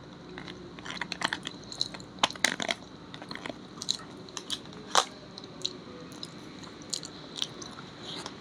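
A person chewing and biting food, with irregular crisp crunches and clicks, busiest in the first few seconds, and one louder crunch about five seconds in.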